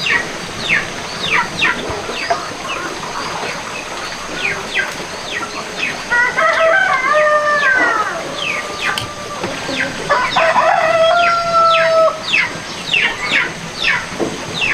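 Chickens: a steady stream of short, high, falling peeps several times a second, with a rooster crowing twice in long calls, about six seconds in and again about ten seconds in.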